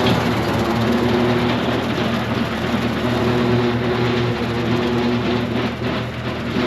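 Tractor running with a bush hog rotary cutter engaged: a loud, steady engine and cutter noise with a low running hum.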